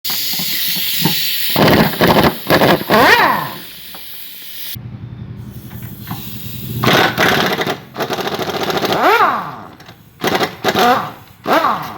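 Pneumatic impact wrench working the bolts of a car's rear shock absorber in several short bursts, each one whining up in pitch and falling back, with a steady hiss during the first few seconds.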